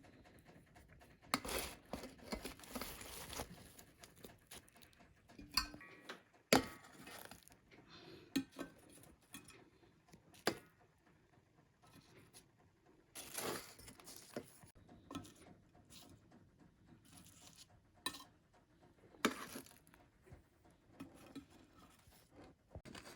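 Hands at work on food preparation: scattered rustling and scraping with a few sharp knocks and clinks of kitchen utensils, in a small room.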